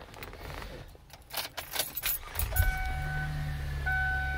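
Keys jingle and click for about two seconds, then a 2015 Chevrolet Impala Limited's engine starts with a brief thud and settles into a steady low idle. A warning chime beeps twice over the idle.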